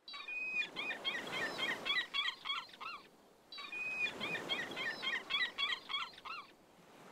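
A bird calling: a long held note, then a fast run of short rising-and-falling notes, about four or five a second. The same sequence is heard twice, with a short gap between, over a soft wash of sea and wind.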